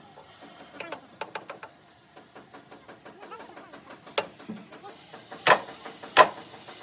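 Hammer striking metal: light taps, then heavy blows that settle into a steady rhythm about two-thirds of a second apart near the end.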